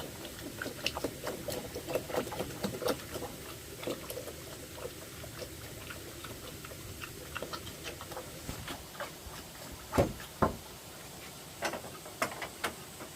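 Irregular light clicks and knocks, scattered and uneven, with two louder knocks in quick succession about ten seconds in.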